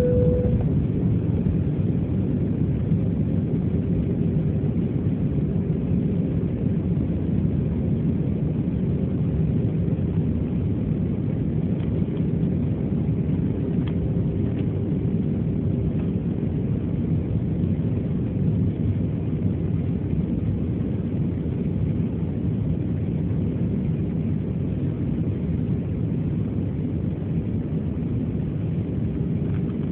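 Steady engine and airflow rumble inside an Airbus A321 passenger cabin on approach, with a faint steady hum over it. A short tone sounds right at the start.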